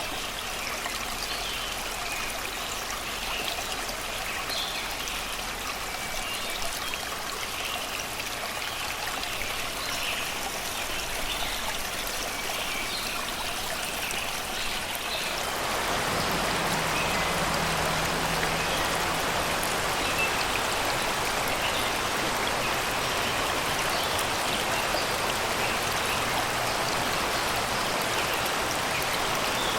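Shallow river water rushing and splashing over rocks in a steady flow, with birds singing in short chirps. About halfway through, the water sound turns louder and fuller.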